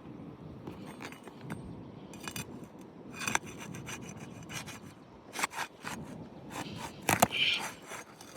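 Asphalt shingle being worked loose from its sealant strip, scraping and crackling with irregular sharp clicks, loudest near the end. The shingles are tearing as they are unsealed, a sign that they are too brittle to repair.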